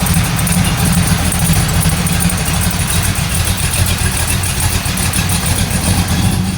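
Truck V8 with an oversized cam running loudly at a steady, uneven idle; the owner blames the cam for very low vacuum that makes the idle hard to hold.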